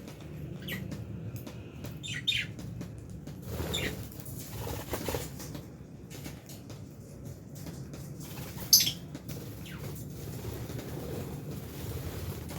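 Lovebirds in an aviary giving a few short, sharp chirps, the loudest about nine seconds in, while wings flutter as birds move about, over a steady low hum.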